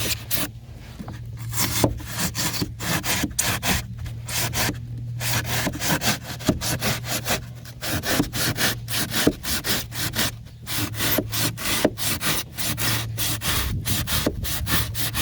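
A blade sawing and scraping through rigid pour-in flotation foam in a boat hull, in quick back-and-forth strokes, several a second, with a few brief pauses.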